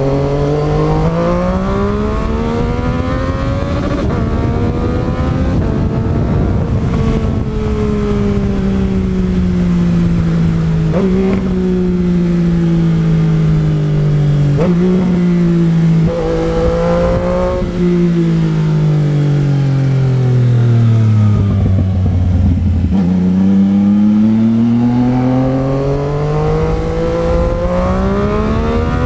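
Yamaha MT-09 Tracer's three-cylinder engine on the move: it pulls up through the revs for the first few seconds, then eases off with the revs falling. Two downshifts, about eleven and fifteen seconds in, each kick the pitch up. It drops to near idle a little past twenty seconds and then accelerates hard again near the end.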